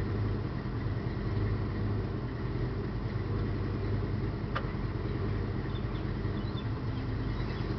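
A 1967 Dodge Dart's 383 stroker big-block V8 idling steadily, with a single sharp click about halfway through.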